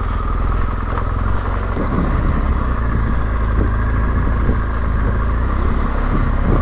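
Yamaha Ténéré 700's parallel-twin engine running steadily at low revs as the bike rolls down a steep, loose, rocky track, with occasional knocks from the rough ground.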